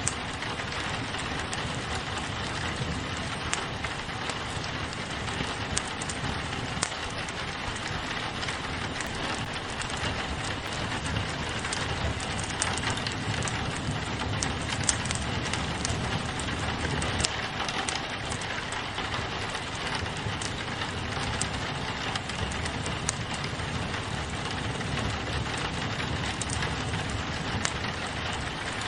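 Steady rain on a window mixed with a wood fire crackling, its small pops and snaps scattered through the steady patter.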